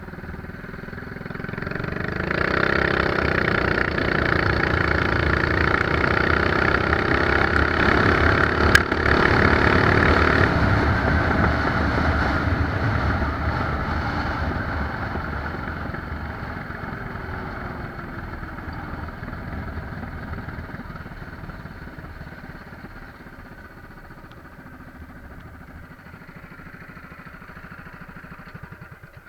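Mini bike's small single-cylinder four-stroke engine launched at full throttle, running high and steady for several seconds, with one sharp click near nine seconds. About ten seconds in the throttle is released and the engine note drops away and fades as the bike coasts.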